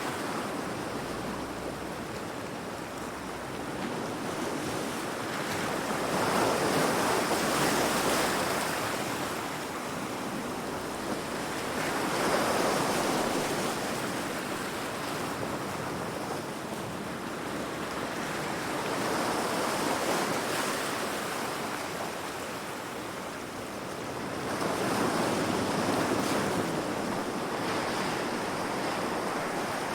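Heavy sea waves crashing against rocks, the surf rising and falling in four big surges about every six seconds.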